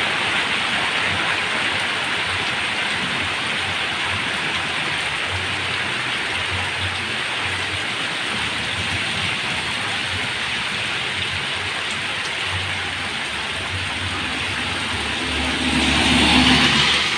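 Heavy rain pouring steadily, with a low rumble underneath that swells briefly near the end.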